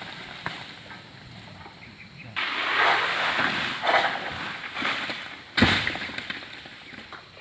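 Oil palm fronds rustling and scraping in bursts as a harvester works the tall palm with a long pole sickle (egrek), followed by a single heavy thud about five and a half seconds in.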